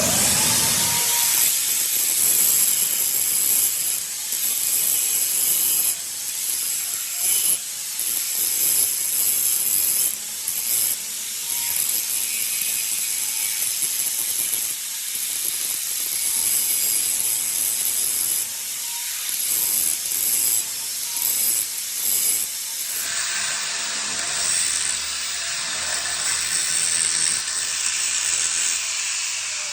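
Metal being worked on a truck gear: a loud, steady, high rasping mechanical noise with small irregular dips.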